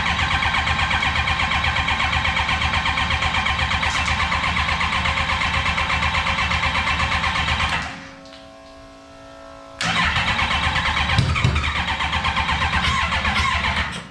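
Motorcycle engine fitted in a car being cranked over on its starter, with an even pulsing of about six beats a second: a long crank of about eight seconds, a short pause, then a second crank of about four seconds. The engine does not settle into running.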